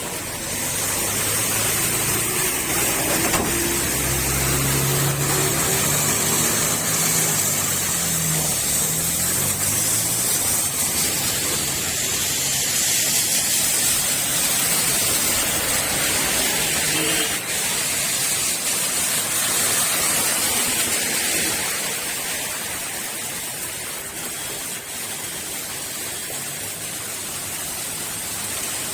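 Steady hiss of heavy rain falling, with a vehicle engine passing in roughly the first ten seconds.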